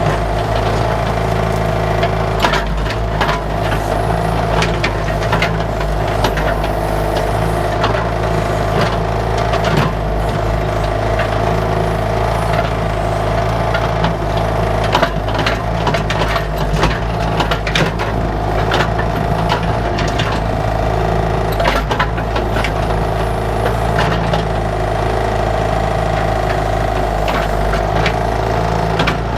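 Bobcat 331 mini excavator's diesel engine running steadily under working load, with frequent irregular knocks, rattles and cracks as the bucket digs out bushes and their roots.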